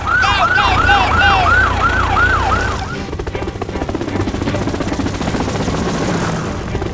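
Police-style siren sound effect: a fast repeating falling wail, about three cycles a second, that stops after about three seconds, over a steady low rumble that continues.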